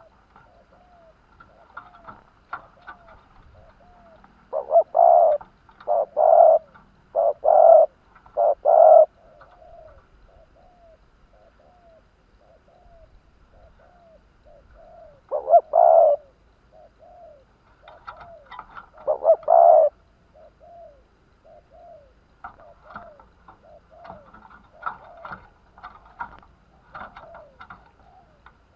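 Spotted doves cooing: one bird gives a loud phrase of four coos, then two shorter loud phrases later, while soft short coos repeat steadily in the background. This is the call used on a decoy dove to lure wild doves.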